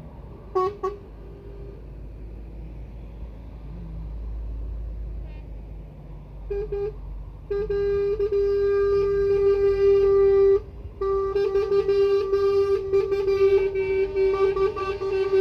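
Truck air horns sounding as the convoy passes. There are two short toots, a couple more after a few seconds, then a long blast of about three seconds. After a brief break the horns go on sounding almost continuously, a second horn of another pitch joining near the end, over the low rumble of truck engines.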